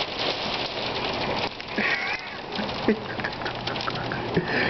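Heavy rain pouring down, a dense steady hiss with fine pattering, heard through an open door.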